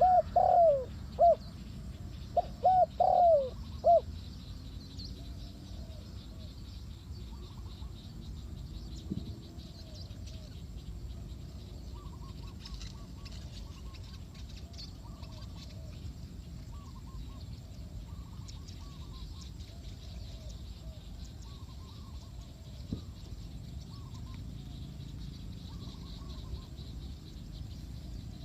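Spotted dove cooing: a loud run of short coos in the first four seconds, then only faint, repeated bird calls over a steady low background noise.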